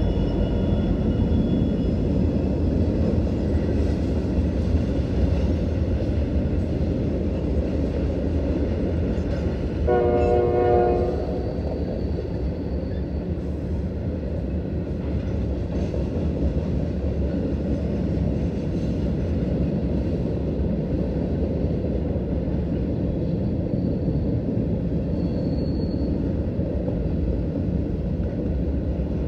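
Norfolk Southern diesel freight train rolling past with a steady rumble of wheels on rail. A locomotive's chime horn sounds one short blast, about a second long, about ten seconds in.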